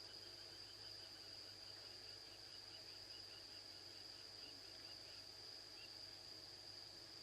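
Faint night chorus of crickets, a steady high-pitched trill. Over it, a run of quick, lower chirps comes about four a second and stops a little before the end. A faint low hum runs underneath.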